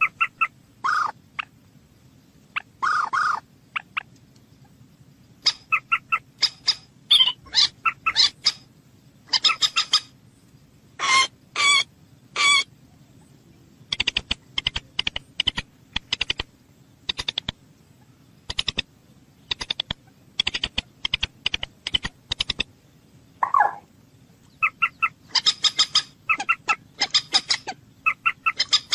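Bird calling: rapid clusters of short, sharp calls, with a few longer, lower notes now and then.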